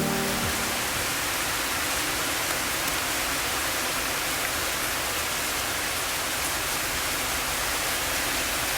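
Steady rain falling, an even hiss with no distinct drops or other events.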